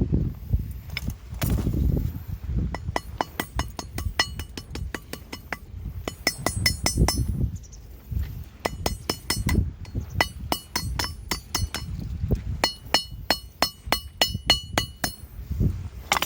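Hammer striking steel on an improvised anvil in quick runs of blows, each blow ringing with a high metallic tone: hand forging at a campfire.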